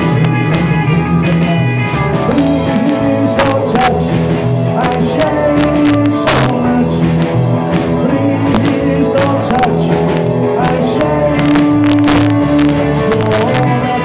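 Live rock and roll band playing, with a bass line and drums keeping a steady beat under pitched instrument parts.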